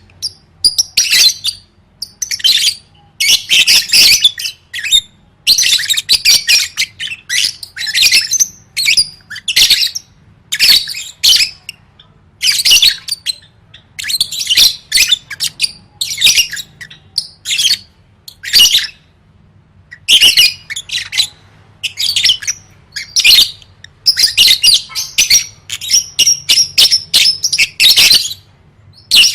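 A lovebird chattering continuously in the keen, 'gacor' state, pouring out rapid, high-pitched chatter and squawks in bursts from a fraction of a second to about a second long, with short breaks between.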